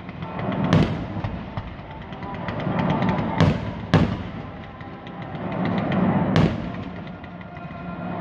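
Fireworks exploding: four sharp bangs, two of them close together in the middle, with crackling and a rumbling echo between them.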